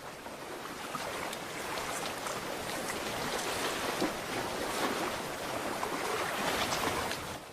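Sea water washing and fizzing over a rocky shore at low tide: a steady rush with fine crackling, growing slightly louder, then cutting off suddenly at the end.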